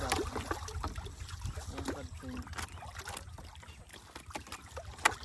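Water splashing and trickling, with scattered small knocks and clicks over a steady low rumble, as fish are handled in water.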